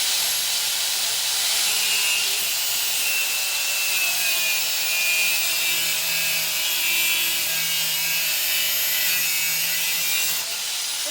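Angle grinder's cut-off disc cutting through steel: a steady, loud grinding hiss with a high whine, easing slightly near the end. The disc is close to worn out.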